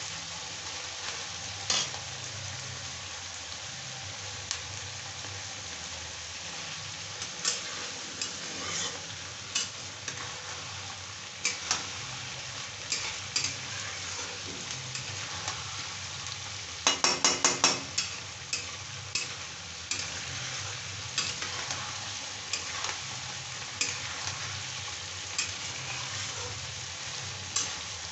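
Chickpeas and sliced onions frying in oil in a metal kadai, sizzling steadily while a flat metal spatula stirs and scrapes them, with scattered clicks of the spatula against the pan. A little past the middle comes a quick run of about seven sharp taps, the loudest sound here.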